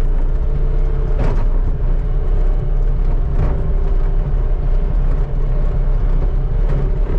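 Skid steer engine running steadily at work, a deep rumble with a steady whine over it, and two short knocks, about a second and about three and a half seconds in.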